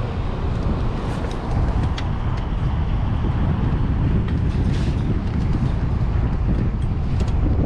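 Steady wind noise buffeting the microphone over a low rumble while travelling, with a few faint clicks.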